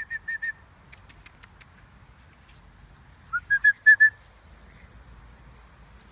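A songbird singing two identical phrases of six or seven short, clear whistled notes, the first note of each rising, the second phrase about three and a half seconds after the first. A few faint clicks fall between them.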